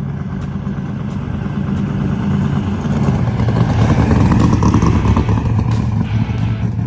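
A motor vehicle's engine running loudly and steadily. It grows louder to a peak about four to five seconds in, its pitch settling a little lower, then eases slightly.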